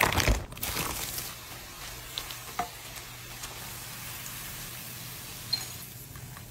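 Coated squid rings sizzling in hot oil in a frying pan, with a loud burst of spatter at the start as they are tipped in, then a steady sizzle over a low hum. A few light clicks come through the sizzle.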